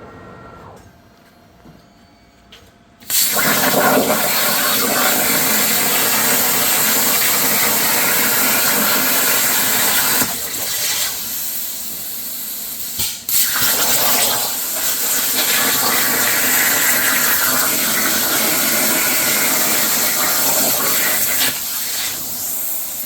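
Plasma cutter torch on a Langmuir Crossfire XR CNC table cutting steel saw-blade plate: a loud, steady hiss that starts abruptly about three seconds in, dips briefly twice midway, and eases off near the end.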